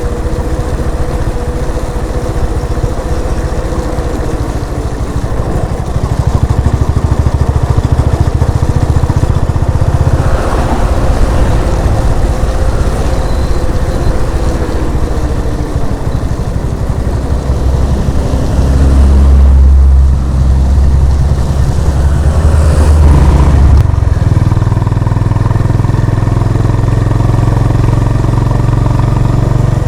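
Honda CB350 RS's air-cooled single-cylinder engine running under way, its note changing pitch with the throttle. It gets louder about six seconds in, with a heavy low rumble for a few seconds past the middle.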